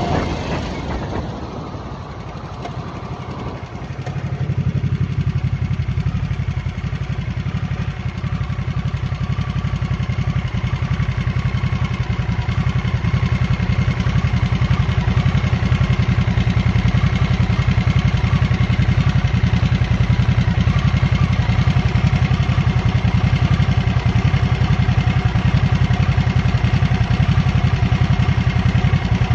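2023 Harley-Davidson Nightster's V-twin running on the move. It is quieter for the first few seconds, gets louder about four seconds in, then louder again around the middle and stays steady.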